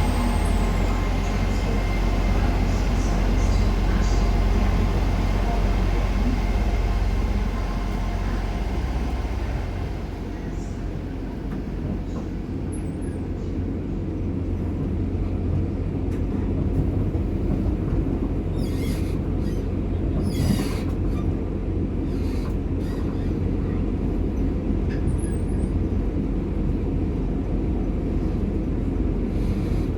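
Passenger train running, heard from on board: a steady low rumble, with a few sharp clicks and knocks in the second half.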